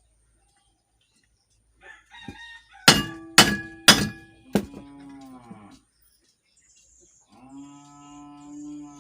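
Four sharp metallic hammer taps about half a second apart on a shaft driving candle wax behind a ceiling fan bearing to push the bearing out. A cow moos in one long call near the end.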